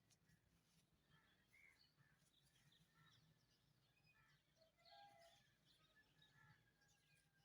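Faint chirps and calls of several birds: many short, overlapping notes, with one lower, slightly longer call about five seconds in.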